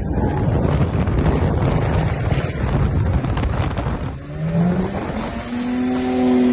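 A car engine running hard under a loud rushing noise of wind for the first few seconds; about four seconds in the engine note rises and then holds steady.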